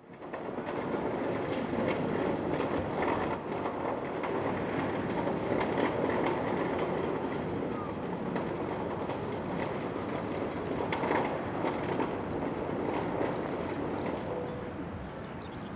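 Airbus A330-300 jet engines at takeoff power: a steady rushing noise with faint clicks scattered through it, easing a little near the end.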